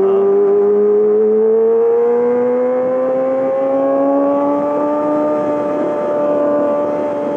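2020 Yamaha R6's inline-four engine through a full M4 exhaust, pulling smoothly up in revs for about five seconds and then holding steady.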